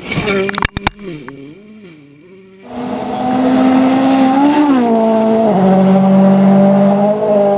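Turbocharged four-cylinder World Rally Car engines at high revs. The first car revs up with a few sharp cracks just under a second in, then its note rises and falls. The sound cuts abruptly about two and a half seconds in to another car held at steady high revs, which drops pitch at a gear change around five seconds.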